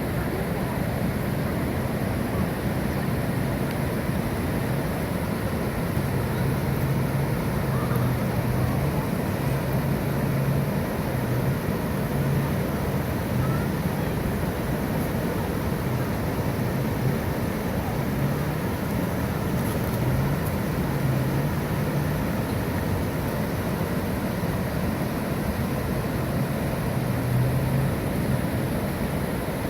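Small river waterfall of the Mogi Guaçu, water rushing and churning steadily, with a low hum that comes and goes underneath.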